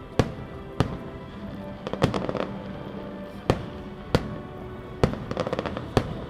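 Fireworks display: aerial shells going off in sharp bangs roughly once a second, with two bursts of rapid crackling, over music playing underneath.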